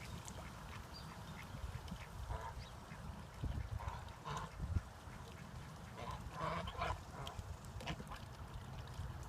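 Domestic ducks quacking: short, scattered quacks, with a busier cluster of several calls about six to seven seconds in.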